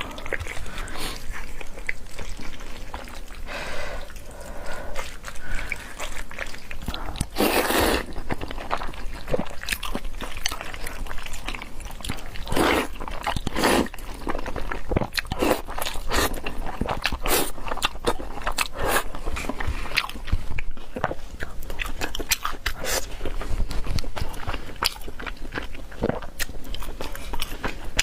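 Someone eating crunchy food, with irregular bites and chewing crunches.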